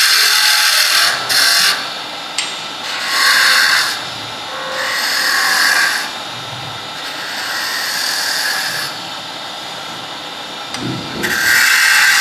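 Woodturning tool cutting a spinning workpiece on a lathe, in several separate passes of one to two seconds each. Between the cuts the lathe runs more quietly.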